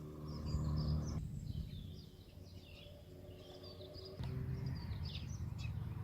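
Small birds chirping outdoors, many short calls, over a low steady hum that shifts in level about a second in and again near four seconds in.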